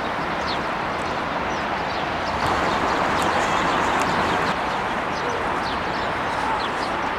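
Steady outdoor background noise with short, high, falling bird chirps repeating through it; the noise swells slightly for a couple of seconds in the middle.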